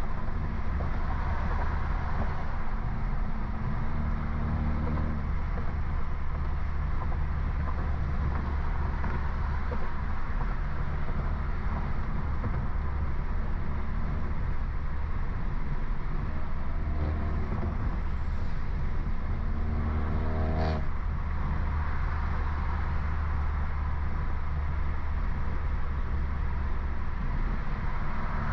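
Stage 2 tuned BMW F30 328i with a downpipe, its turbocharged four-cylinder engine and exhaust running steadily under way. About twenty seconds in there is one sharp crack, typical of an exhaust pop from a burble tune.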